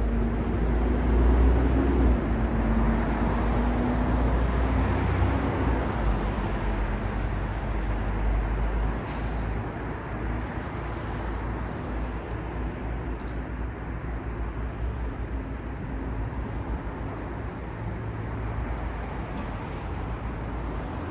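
Road traffic on a city street: a heavy vehicle's engine passes close by with a deep rumble during the first half, a short hiss comes about nine seconds in, and a steadier traffic hum follows.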